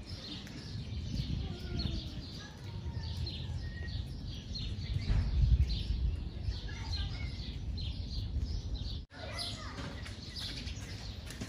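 Small birds chirping: many short, high chirps repeating every half second or so, over a low rumbling background. The sound drops out for an instant about nine seconds in.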